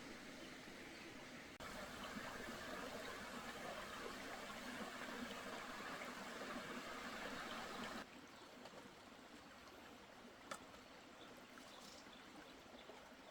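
Steady rush of running water, louder in a middle stretch, with the level changing abruptly twice and a faint click late on.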